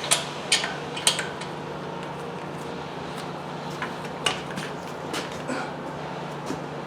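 Several sharp metallic clinks and taps, three in quick succession at the start and a few more scattered later, over a steady low hum.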